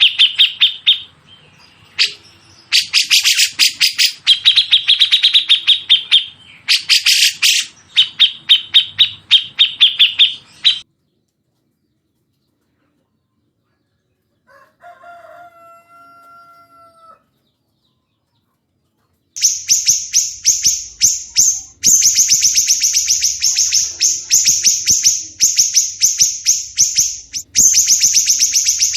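Recorded songbird calls: long runs of fast, sharp repeated notes, about ten a second, that stop about eleven seconds in. After a near-silent pause with a faint held whistle, a faster, higher-pitched rattle of repeated notes starts about nineteen seconds in.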